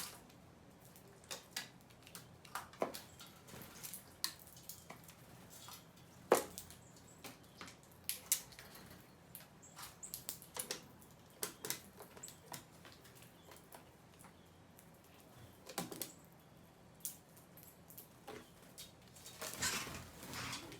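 Scattered light taps and ticks at an irregular pace from small birds pecking and hopping at seed, with a brief rustling flutter near the end.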